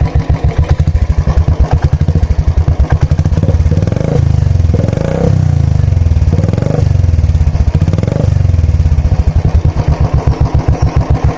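Royal Enfield Classic 350's single-cylinder engine breathing through an aftermarket Dolphin silencer, idling with an even thumping beat. About four seconds in it is revved in four short throttle blips, then drops back to idle.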